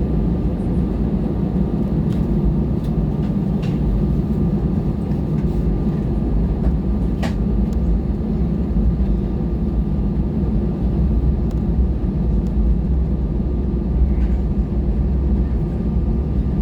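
Steady rumbling drone inside an Airbus A320 cabin, with the engines and cabin air running on the ground before takeoff, and one sharp click about seven seconds in.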